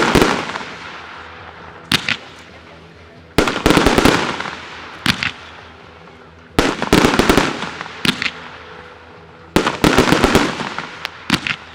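Fireworks display: clusters of rapid sharp bangs from bursting fireworks, each cluster trailing off before the next, about every two to three seconds.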